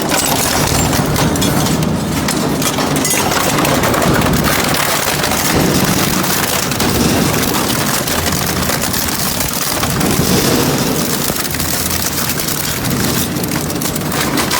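Industrial shredder grinding metal: a loud, dense, continuous crackle and clatter over a low machine hum.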